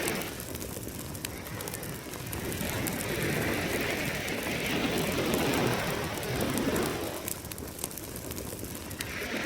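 Campfire crackling with frequent sharp pops over the wash of ocean surf. One wave swells and falls away in the middle, and another builds near the end.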